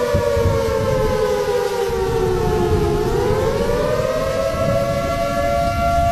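A siren wailing in two close tones at once, sliding slowly down in pitch for about three seconds and then rising again, over a loud low rumble of noise.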